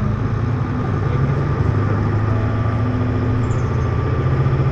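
Hino U-HT2MLAA city bus heard from inside the cabin, its diesel engine running with a steady low hum. The bus's running sound tends toward abnormal noise, close to the worn-out state of a sister bus near the end of its service.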